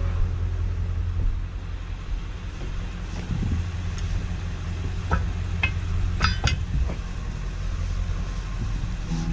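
Feed truck running with a steady low rumble, with a few short, sharp high-pitched sounds about two-thirds of the way in.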